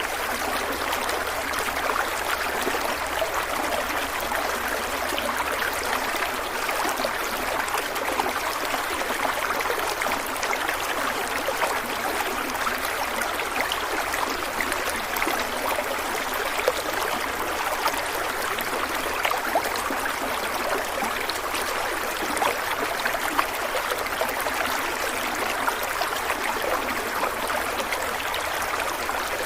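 Stream water flowing steadily over stones, a constant rushing babble with many small splashes and trickles.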